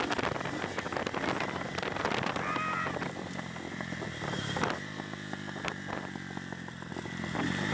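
Honda CB300 motorcycle engine running while riding, steady through the second half, with road and wind noise and scattered clicks.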